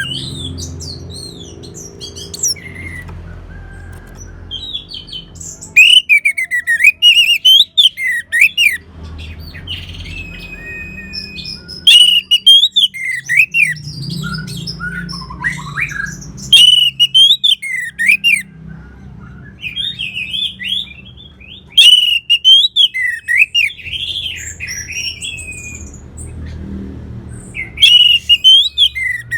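Orange-headed thrush singing: loud phrases of varied, gliding whistles mixed with fast, high twittering, a new phrase every five or six seconds, over a steady low hum.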